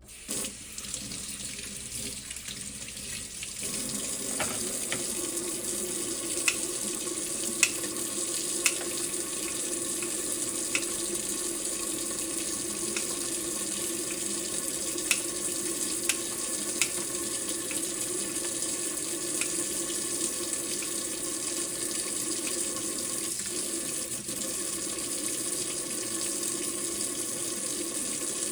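Water running steadily from a tap into a sink, turned on suddenly, with a few light sharp clicks over it.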